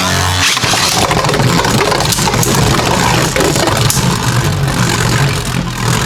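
Two Beyblade Burst Turbo spinning tops whirring in a plastic Rail Rush stadium, with a dense run of small clicks and clattering hits as they clash and scrape along the rails.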